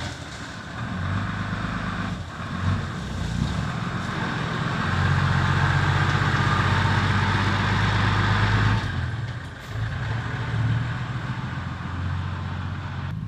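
Dump truck's diesel engine running, going up to a louder, steady run for about four seconds in the middle before dropping back.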